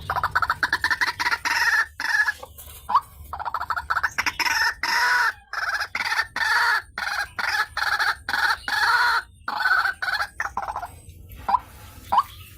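White-breasted waterhen (ruak-ruak) calling: long runs of rapid, harsh repeated notes broken by short pauses, giving way near the end to short rising notes about half a second apart.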